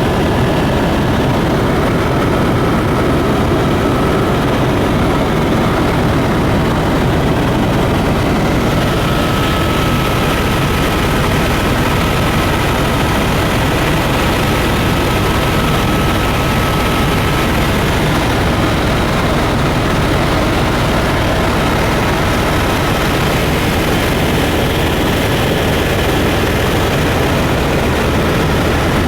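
Small propeller tour airplane in flight: a steady, loud engine and propeller drone that holds unchanged throughout.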